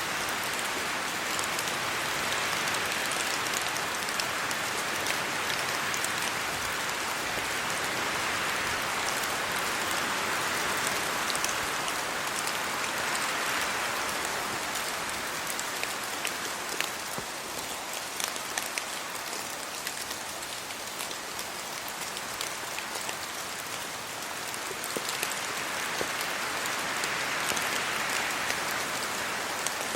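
Steady rain falling on trees, leaves and a road, swelling and easing in gusts of wind, with scattered sharper drips.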